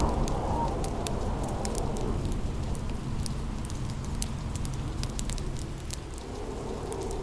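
Wood fire crackling with sharp scattered pops over a steady hiss of rain, while a thunder rumble dies away in the first second.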